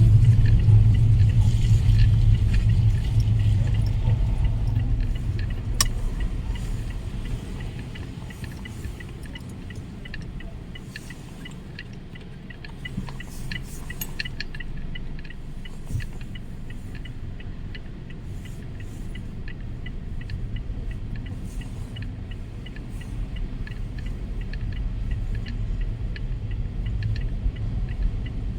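Storm wind rumbling, loud at first, dying down after several seconds and building again near the end, with scattered light ticks of rain.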